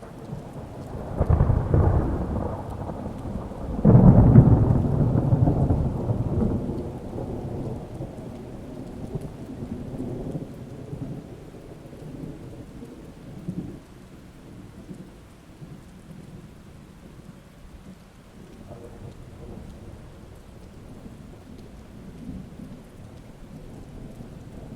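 Thunder over steady rain: a rumble starts about a second in, a louder clap comes about four seconds in, and the rolling rumble dies away over the next ten seconds, leaving the even hiss of the rain.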